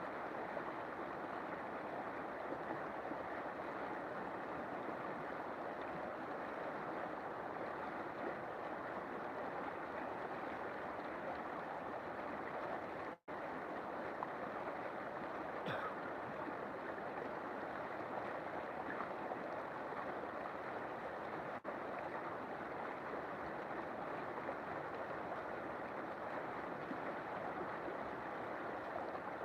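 River water flowing steadily in an even, continuous rush. The sound drops out completely for an instant about 13 seconds in, then carries on unchanged.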